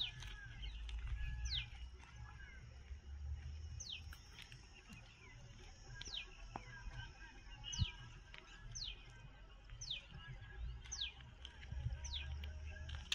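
A bird calling over and over: a short, sharp note that falls steeply in pitch, repeated every second or two, with fainter chirps in between and a low rumble underneath.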